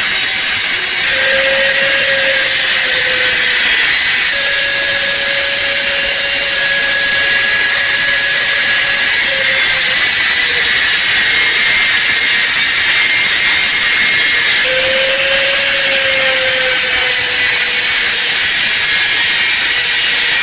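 A power tool works continuously on the metal lamp, making a steady loud hiss with a faint hum that dips slightly in pitch a few times as the load changes.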